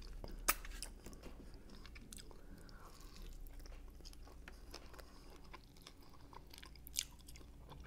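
Chewing and biting on saucy pork riblets: faint wet mouth sounds and small clicks as meat is gnawed off the bone, with a sharper click about half a second in and another near the end.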